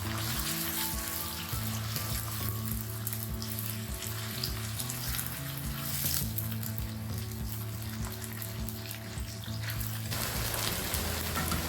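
Food frying in hot oil and ghee in a wok: a steady sizzle.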